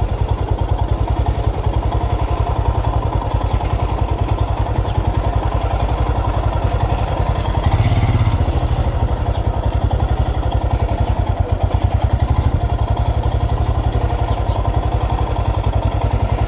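Motorcycle engine idling with a steady, even beat, swelling briefly about eight seconds in.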